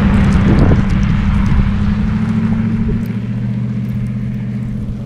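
Car engine idling with a steady low hum, under rushing wind noise that eases about three seconds in.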